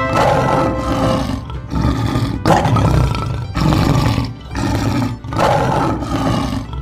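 Lion roars, one after another about once a second.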